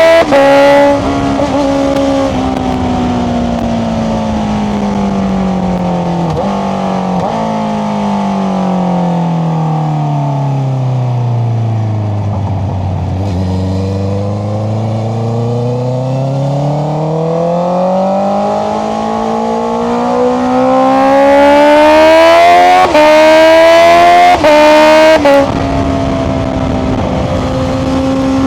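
2025 Honda CBR650R E-Clutch's inline-four engine through an Akrapovic exhaust, its note falling steadily for about twelve seconds as the bike slows, then rising again as it accelerates. Brief dips in the sound about three-quarters of the way through mark gear changes, and it then holds a steady cruising pitch.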